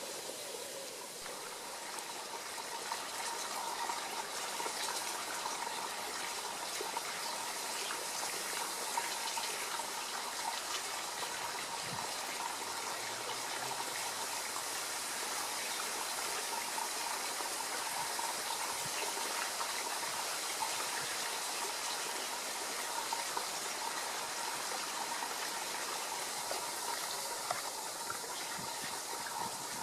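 Steady rushing of running water, an even hiss with no clear breaks.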